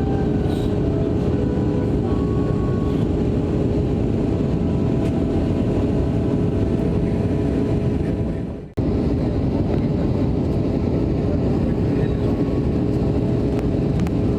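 Steady roar of engine and airflow noise inside the cabin of an Airbus A320 airliner, with a constant hum running through it. It dips and breaks off for a moment about nine seconds in, then carries on unchanged.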